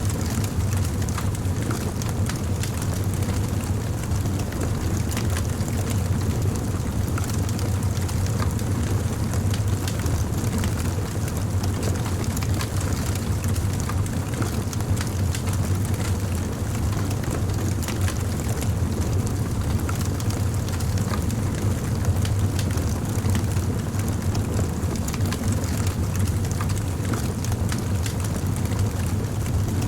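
Campfire burning steadily, with a constant low rumble of the flames and scattered sharp crackles and pops from the wood.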